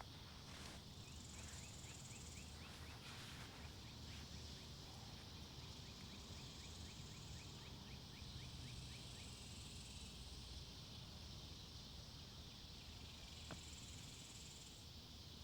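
Faint woodland ambience: insects buzzing high in patches that come and go, with a run of rapid faint chirps, over a steady low rumble of wind.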